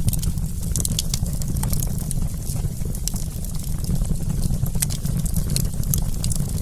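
Wood campfire crackling: many scattered sharp pops and snaps over a steady low rumble.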